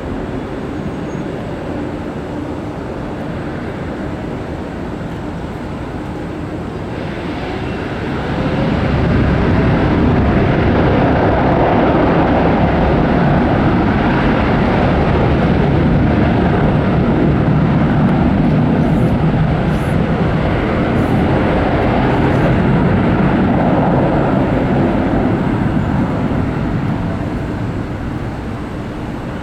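Jet airliner going past: engine noise that swells sharply about eight seconds in, holds loud and steady for some fifteen seconds, then fades near the end.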